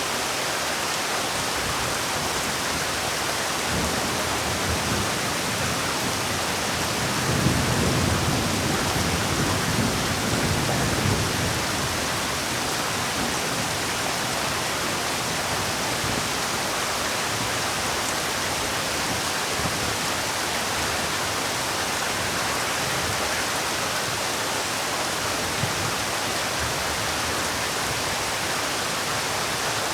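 Heavy rain falling, a steady dense hiss. A deeper rumble swells for a few seconds about seven seconds in.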